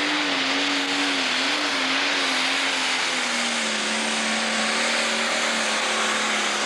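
Turbocharged International Pro Stock pulling tractor's engine running flat out under load from the sled, its pitch wavering and then sagging a little about halfway through.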